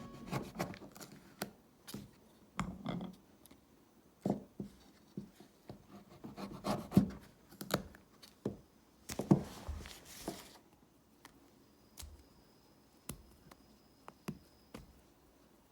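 Kitchen preparation handling sounds: scattered light knocks and taps, with rubbing and scraping in between, busiest about a third and about two thirds of the way through.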